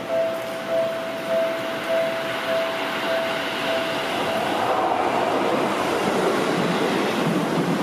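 A yellow Seibu 9000 series electric train running past close by, its wheel and running noise swelling about four seconds in. Before that a warning bell dings steadily about twice a second, then stops.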